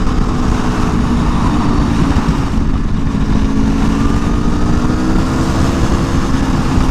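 2022 Aprilia Tuono V4 1100 Factory's V4 engine running under a steady throttle on track, heard onboard over wind rush. Its pitch holds fairly even, rising a little midway.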